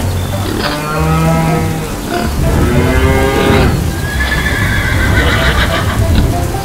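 Farm animal calls, three in a row, the last a high, quavering horse whinny, over background music with a steady low beat.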